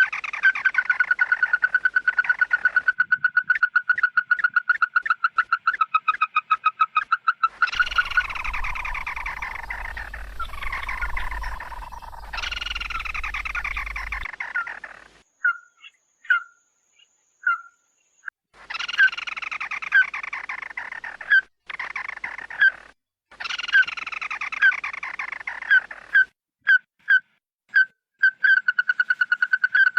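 A bird calling loudly and repeatedly: fast, even runs of short sharp notes alternate with stretches of falling calls, broken by a few short pauses, as in a flock-calling lure recording.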